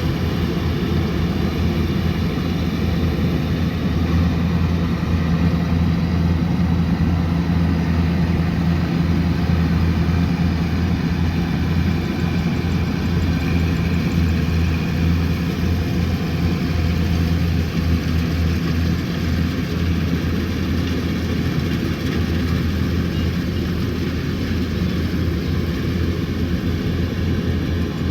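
Kubota combine harvester running steadily, a constant low engine hum with machinery noise over it.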